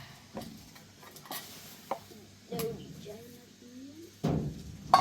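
Scattered light clicks and knocks of things being handled, with a faint voice in between and a louder thump near the end.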